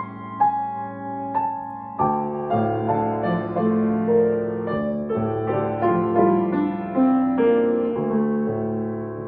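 Solo piano playing a slow, soft romantic piece: a single-note melody over a held bass, which fills out into fuller chords about two seconds in.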